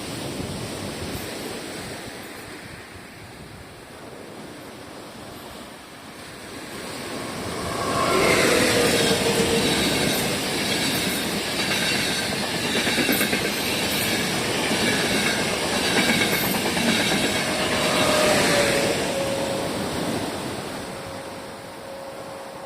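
A train passing close by. It builds up over a few seconds, is loud for about ten seconds with steady high whining tones over the rolling noise, then fades away.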